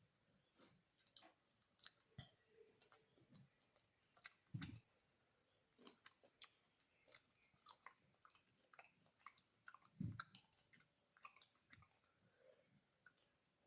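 Close-up mouth sounds of someone eating beef biryani: chewing with irregular wet clicks and smacks, quiet overall, with a couple of louder soft thuds about four and a half and ten seconds in.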